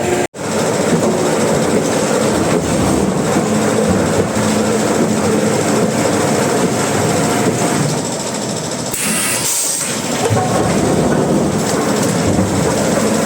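Sawmill machinery running: a loud, steady, rattling mechanical clatter. It cuts out for an instant just after the start and eases briefly about two-thirds of the way through.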